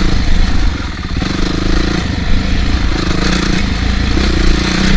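Dirt bike engine running on a trail ride, the throttle opening and closing every second or so.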